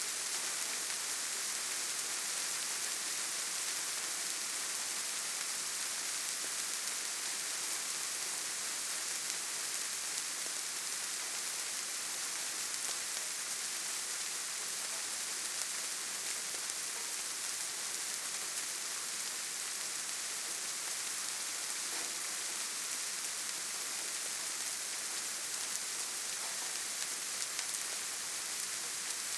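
Steady rainfall in a forest: an even, unbroken hiss with no single drops, thunder or other events standing out.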